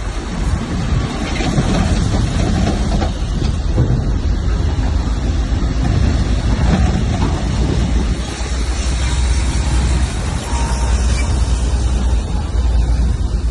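Heavy earthmoving machinery running, a steady low engine rumble mixed with a noisy clatter that rises and falls throughout.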